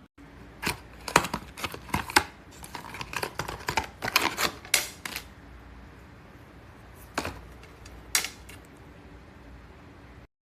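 Small hard objects being handled: irregular sharp clicks and taps, a dense run in the first half, then two isolated clicks. The sound cuts off abruptly near the end.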